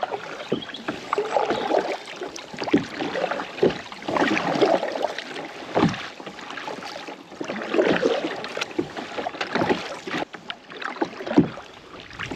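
Kayak paddling on a lake: the paddle blades dipping and pulling through the water in repeated swelling surges, with small splashes and sharp little knocks.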